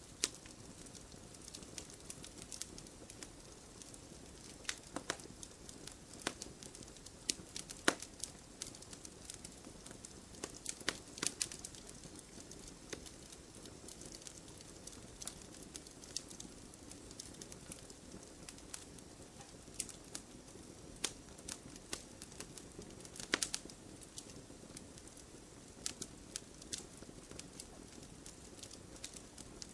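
Wood fire burning, with irregular sharp crackles and pops over a steady low rustle of flames; two louder pops stand out, about eight seconds in and again past twenty-three seconds.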